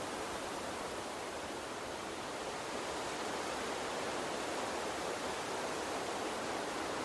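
Gentle water stream running steadily: an even rushing hiss with no separate splashes or other events.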